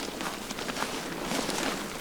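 Rustling with a few faint light clicks, as tent fabric and poles are handled while a tent is being pitched.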